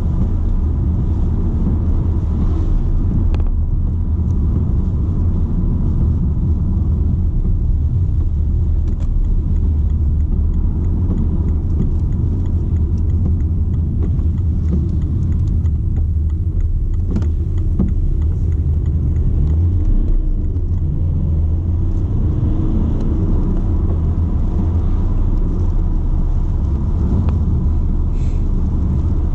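BMW 120d's four-cylinder diesel and tyres heard from inside the cabin while driving: a steady low rumble that holds even throughout.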